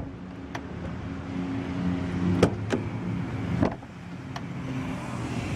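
2012 BMW X5 M's twin-turbo V8 idling steadily, with several sharp clicks and a heavier knock a little past halfway from the door latch as the soft-close door is shut.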